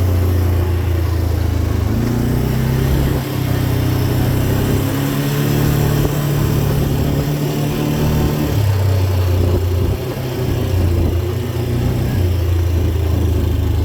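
Dirt bike engine running on a trail, its pitch stepping up and down several times with changes of throttle, over a steady rush of wind noise.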